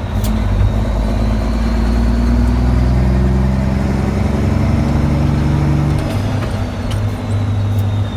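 Dump truck engine running as the truck drives along; its note changes pitch about three and a half seconds in and again around six seconds.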